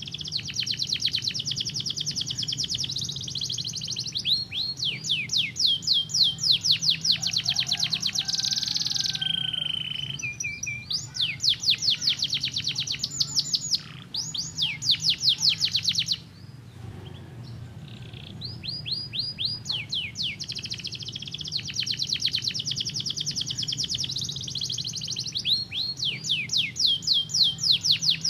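Domestic canary singing a long song of fast trills, each a run of quick, repeated down-slurred whistled notes. The song breaks off for about two seconds a little past the middle, then resumes.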